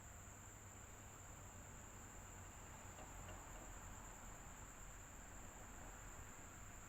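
Electric fan running steadily and faintly: an even whoosh over a low hum, with a constant high-pitched whine.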